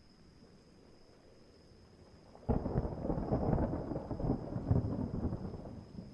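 A thunderclap breaks suddenly about two and a half seconds in, over faint rain, and rumbles and crackles for about three seconds before fading.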